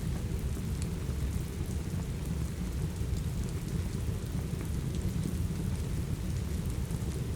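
Steady rain with a heavy, even low rumble, and a few faint scattered crackles from a wood fire in a fireplace.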